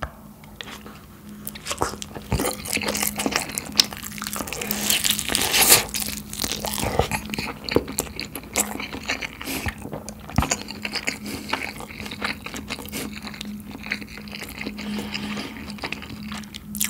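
Close-miked chewing of crispy, sauce-glazed spicy fried chicken together with a mouthful of sticky rice: dense crunching and wet mouth sounds, busiest and loudest about a third of the way in.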